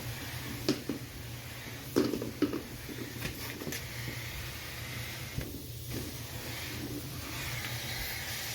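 Central vacuum hose and attachment sucking air steadily across a recliner, a constant hiss over a low hum, with a few sharp knocks in the first few seconds as the attachment bumps the chair.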